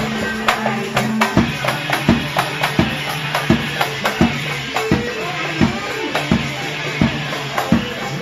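Live band music with no singing: held melody notes over a steady beat of percussion strikes, a little under two a second.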